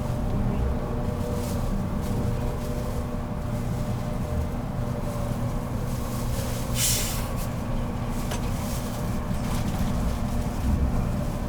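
Running noise of a JR Kyushu 783 series limited express electric train heard inside a motor car: a steady rumble of the wheels on the rails with a faint whine from the traction motors and gears. A brief hiss about seven seconds in.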